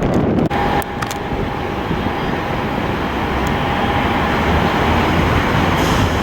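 Jet airliner's engines running as a loud, steady roar that slowly grows louder, with a faint whine over it for the first few seconds.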